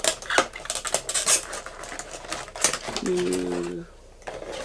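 Funko Pop vinyl figure being handled and fitted back into its cardboard box with plastic window insert: quick rustling, crinkling and clicking of plastic and cardboard. A brief low hum about three seconds in.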